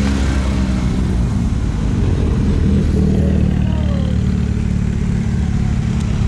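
A car engine running steadily with a constant low drone.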